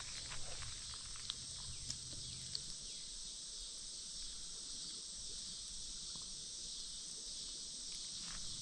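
Steady high-pitched chorus of insects, with a few light clicks in the first few seconds.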